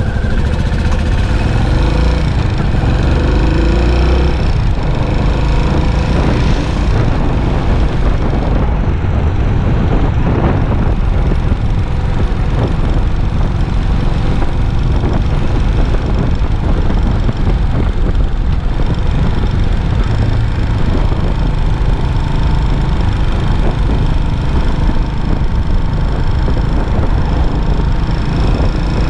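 Yamaha SR400's air-cooled single-cylinder four-stroke engine running steadily through its stock muffler while the bike is ridden in city traffic, with continuous road noise.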